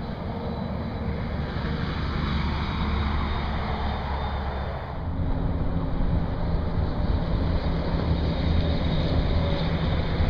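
Trucks climbing a long highway grade: engines pulling steadily under load as they pass, over tyre and wind noise. A second truck's lower engine note comes in about halfway.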